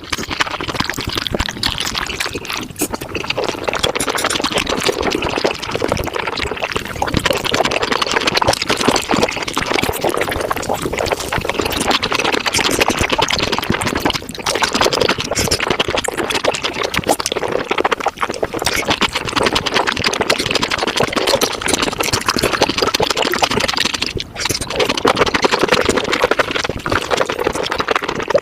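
Eating sounds sped up to five times normal speed: dense, continuous wet chewing and slurping of spicy mushrooms, squelches and mouth clicks running together into a rapid crackle.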